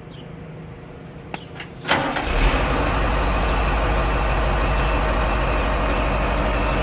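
Dump truck's diesel engine starting about two seconds in, catching quickly and then idling steadily with a deep rumble.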